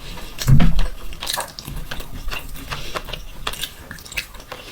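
Close-up eating sounds of someone chewing a mouthful of mutton and rice: a run of quick wet clicks and smacks, with a louder low thud about half a second in.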